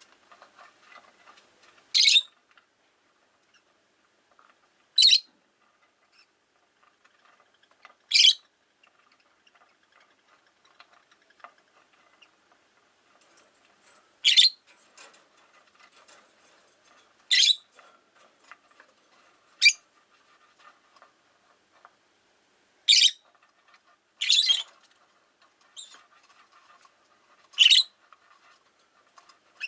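Rosy-faced lovebird calling: about ten short, shrill single chirps, one every two to three seconds, with faint scratchy background noise between them.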